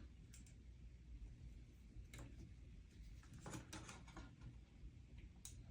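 Near silence with a few faint, scattered clicks and scrapes of tiny screws being handled and fitted into a circuit board's mounting feet.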